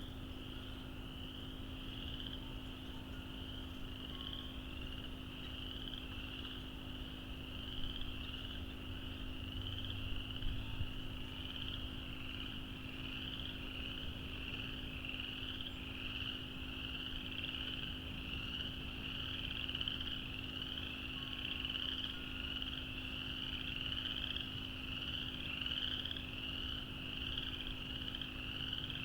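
A dense chorus of frogs: many high, short, rising peeps overlapping into a continuous shrill chorus. A low steady hum runs underneath.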